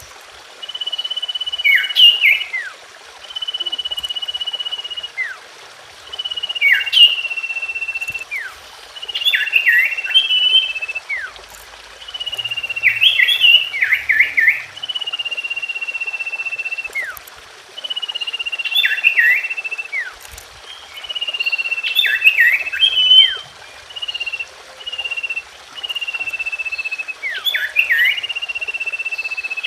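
Common iora (cipoh) singing: long, level whistled notes, each about a second and a half, each followed by a quick burst of short down-slurred notes. The phrase repeats every few seconds, as a calling track meant to get a silent or newly caught cipoh singing again.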